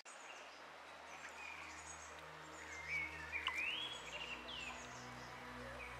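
Small birds chirping and calling in short scattered notes, with a louder rising call about three seconds in.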